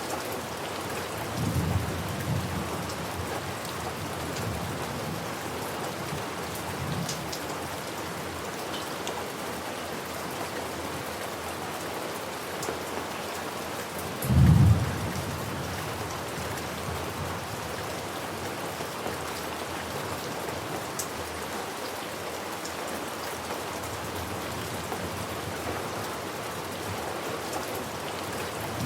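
Steady heavy rain hiss, with rolls of thunder: a low rumble about two seconds in, a fainter one near seven seconds, and the loudest, short clap of thunder about halfway through.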